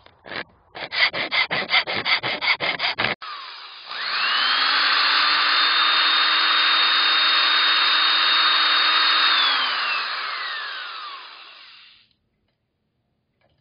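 Quick hand strokes on steel, about five a second, until about three seconds in, then an electric angle grinder spins up, runs steadily with a high whine and slowly winds down to a stop, working on the steel of an ammo can.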